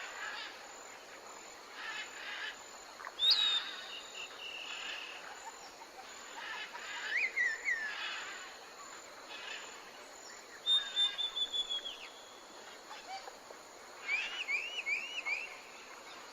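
Tropical forest ambience: a steady hiss of insects, with several small birds giving high whistled calls. One is a sharp single note, one a quick run of repeated notes, and one a series of four arched, rising-and-falling notes.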